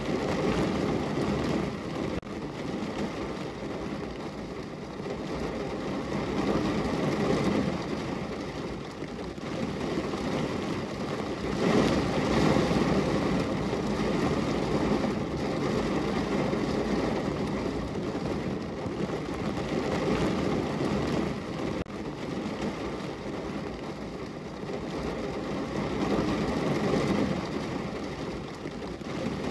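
Rain falling on a window: a steady, rumbly hiss that swells and eases several times.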